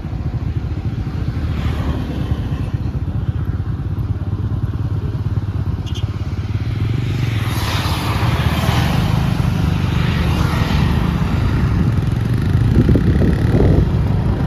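Motorcycle engine running steadily while riding, getting somewhat louder in the second half, with a rushing noise that swells and fades around the middle.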